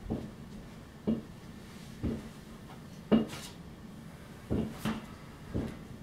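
Fireworks going off at a distance: a string of separate short bangs, roughly one a second.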